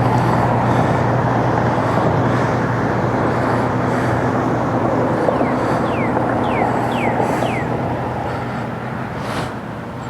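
A steady engine drone with a low hum under it, fading near the end. About six seconds in, four short falling chirps sound in quick succession.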